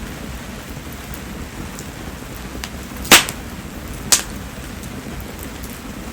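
Mayumi (spindle tree) firewood burning in steady rain: an even rush of rain and fire, with two sharp pops about a second apart near the middle.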